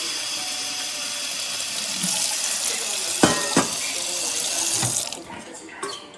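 Water running from a tap, louder from about two seconds in, with two sharp knocks near the middle; the flow stops about five seconds in.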